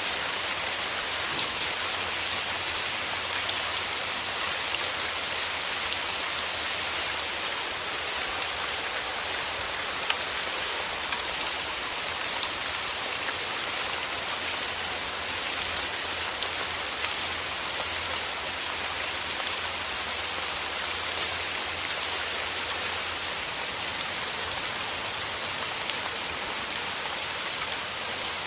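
Steady rain falling: a dense, even hiss of rain with many small drop taps on surfaces.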